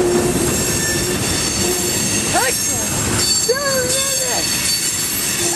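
Long Union Pacific freight train's cars rolling past, a steady loud rumble and rattle of wheels on rail, with brief wheel squeals twice near the middle.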